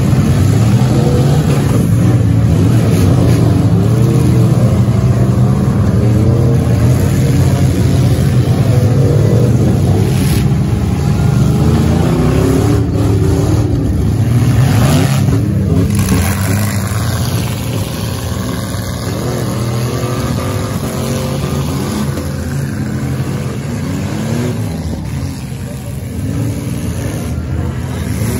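Several demolition derby minivans' engines running loud together, revving up and down over one another. A couple of sharp noises cut through around the middle, and the engines ease off a little after that.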